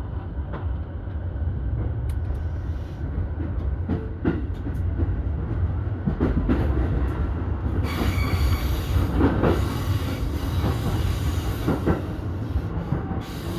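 E233 series commuter train running at speed, heard from inside the leading car: a steady low rumble of wheels on rail with scattered clacks as the wheels pass over rail joints.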